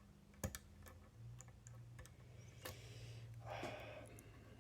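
Faint small metallic clicks of a disc detainer pick turning the wafers inside a Miwa DS lock while it is being picked. There is one sharp click about half a second in, a brief scratchy rub near the end, and a low steady hum underneath.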